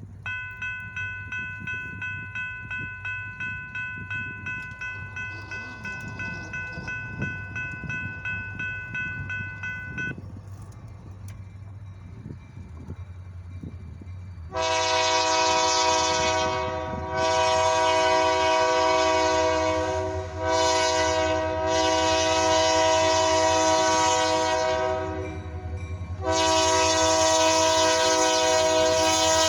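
A diesel freight locomotive's air horn sounds a series of long blasts, starting about halfway in and still sounding at the end, over the low rumble of the engines. Before that, a bell rings in quick, even strokes for about ten seconds and then stops.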